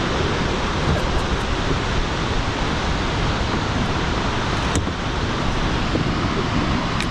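Steady roar of Shoshone Falls, water pouring and churning at its foot, with rough water close by.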